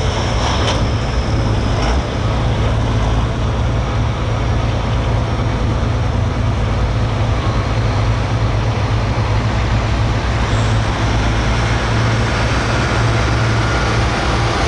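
Super stock diesel pulling truck's engine at full throttle under load, a loud steady drone with no let-up.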